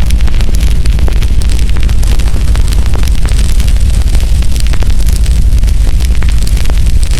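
Wood fire burning, with many sharp crackles and pops at irregular moments over a steady low rumble.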